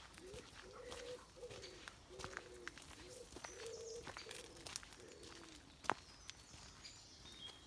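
A pigeon cooing: a run of low, repeated coos for the first five seconds or so. Faint higher chirps of small birds come over it, and there is one sharp click about six seconds in.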